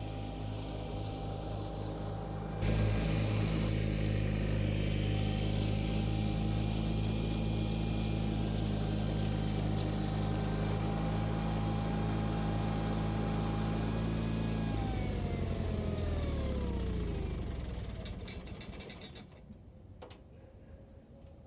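John Deere 318 lawn tractor's Onan twin-cylinder engine running steadily with its mower, growing louder about three seconds in; about fifteen seconds in it is shut down and winds down, its pitch falling until it stops.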